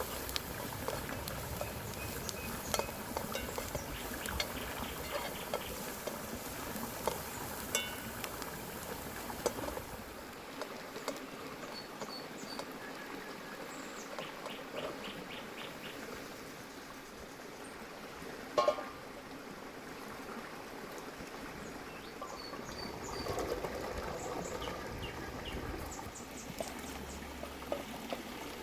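Small birds chirping in short repeated high trills. For the first third there is a steady hiss with scattered small crackles, and about two-thirds of the way through there is one sharp knock.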